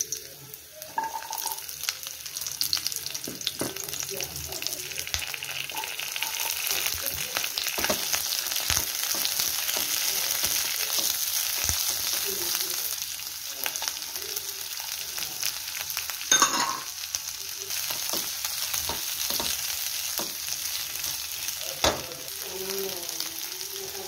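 Sliced garlic, then diced onion and capsicum, sizzling in hot oil in a nonstick wok as they are stirred, with frequent scrapes and taps of the utensil on the pan. The frying grows louder over the first few seconds. A sharp knock on the pan about two-thirds of the way through is the loudest sound.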